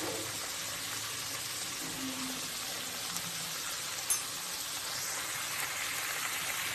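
Lauki halwa (grated bottle gourd cooked down in milk) sizzling steadily in a metal pan on the stove, with a single light tick about four seconds in.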